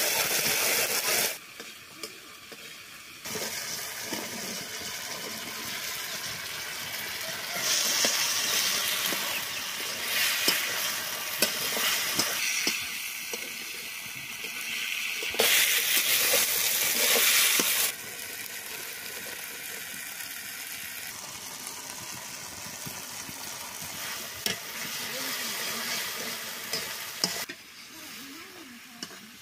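Food frying in oil in a steel wok, with a steady sizzle and the stir and scrape of a metal spatula against the pan. The loudness jumps up and down abruptly several times.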